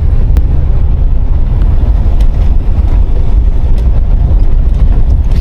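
Steady low rumble of a moving car heard from inside: road and wind noise from the drive.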